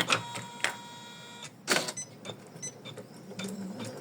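Computerised embroidery machine starting up for the placement-line stitch: a brief steady motor whine for about a second and a half, followed by a few scattered clicks.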